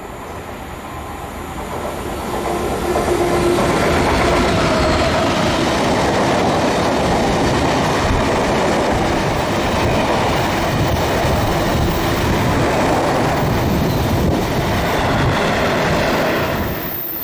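A DB Class 66 diesel locomotive, with its two-stroke V12 engine, approaches and passes at speed hauling a freight train; the sound builds over the first three seconds. Then a long rake of open wagons runs by with a steady loud rumble and clatter of wheels over the rail joints, cutting off sharply near the end.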